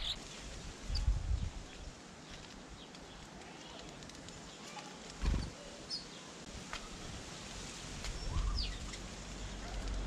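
Small garden birds giving scattered short chirps and brief gliding calls, with a few low, muffled bumps and rumbles at the microphone.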